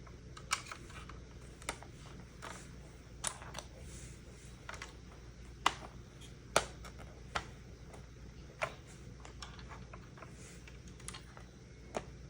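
Small plastic Lego pieces clicking and snapping together as a set is built: about a dozen sharp, irregular clicks, the loudest a little over halfway through.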